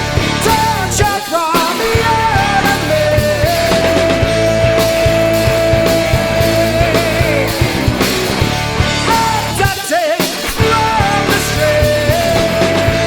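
A live rock band playing loud, with distorted electric guitars, bass and drums. Twice the bottom end drops out for a moment, about a second in and again about ten seconds in, and a long high note is held over the band.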